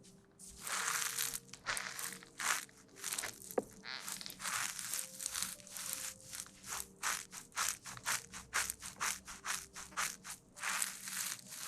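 Close-miked ASMR rustling: quick, irregular crinkling and scratching strokes, many to the second, over faint background music.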